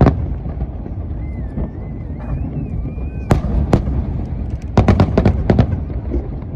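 Aerial fireworks bursting: sharp bangs at the start and a pair a little past the middle, then a quick run of crackling reports, over a steady low rumble of the ongoing display.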